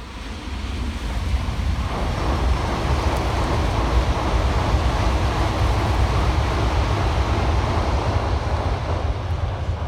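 N700S Shinkansen bullet train passing at high speed: a long rush of noise that swells about two seconds in and eases near the end, over a steady low rumble of wind on the microphone.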